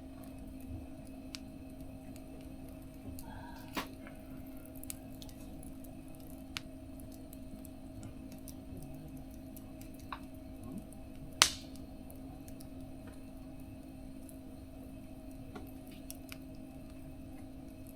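Wood fire in a small mesh fire stove crackling with scattered small pops and one sharp, loud snap about two-thirds of the way through, over a steady low hum.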